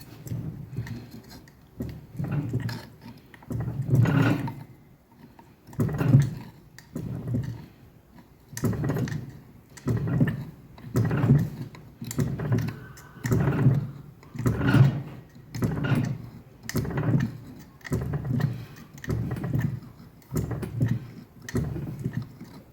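Fly press worked in a steady rhythm, its ram coming down on the veining tool about once a second with a dull metallic thump each time, pressing veins into 2 mm steel plate cold.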